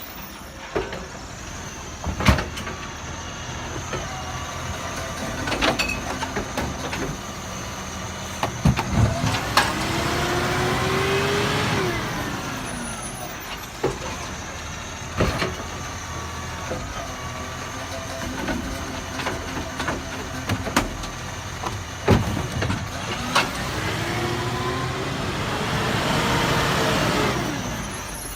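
Garbage truck running, its engine rising and falling in pitch twice, with a louder stretch each time, and several sharp knocks scattered through.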